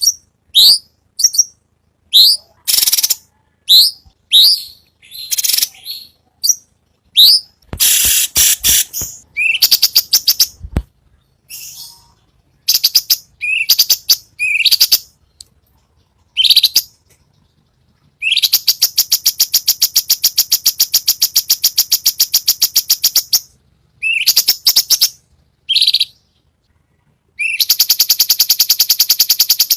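Cucak cungkok calling: a string of short, sharp rising notes about once a second, then a long rapid, buzzy rattle of about five seconds (the harsh 'besetan'), and another starting near the end.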